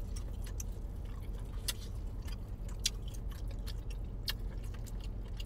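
Someone chewing food, with scattered short sharp mouth clicks over a steady low hum.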